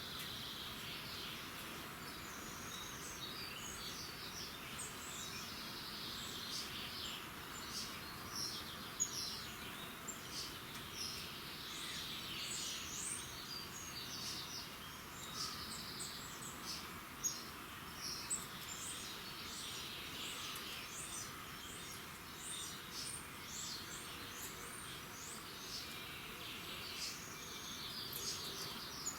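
Dawn chorus: many songbirds singing and chirping at once, dense short chirps and trills overlapping without a break, over a steady low hiss. A few sharper chirps stand out, about nine and seventeen seconds in.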